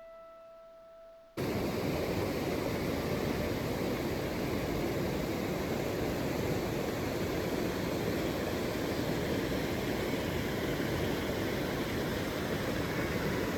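Soft background music cuts off about a second in, and a steady rushing noise takes over, even and unbroken.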